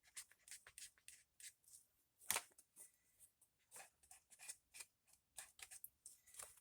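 Faint, quick, irregular scratchy dabs of an ink pad being rubbed along the edges of a paper piece, with one louder tap a little over two seconds in.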